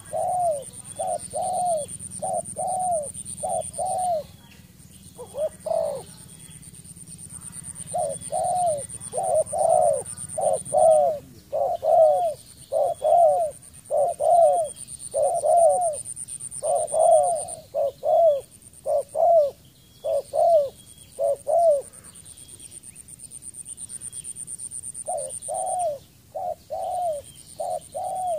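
Spotted dove cooing in quick runs of short rising-and-falling notes, about two a second, broken by a few pauses of one to three seconds.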